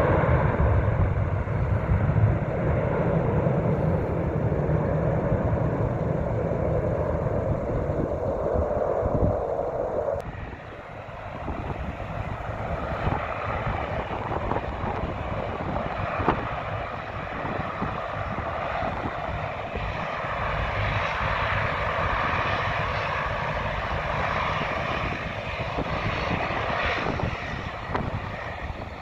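Turboprop airliner's engines and propellers running: a steady drone with a held tone over a low rumble. About ten seconds in, the tone cuts off suddenly and a quieter, hissing engine sound carries on.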